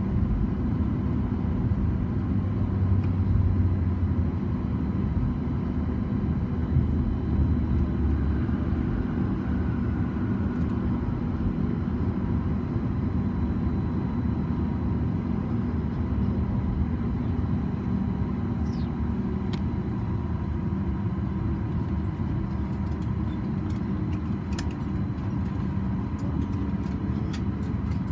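Cabin noise inside a Boeing 737 MAX 8 on the ground after landing: a steady low rumble of the idling CFM LEAP-1B engines and air conditioning, with a steady hum and a faint falling whine about ten seconds in.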